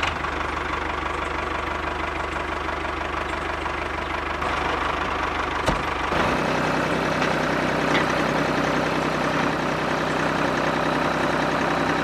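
Mini engine of a DIY model tractor and well-pump build running steadily, with a sharp click a little past halfway. Just after the click the low hum changes and the running settles into a slightly different note.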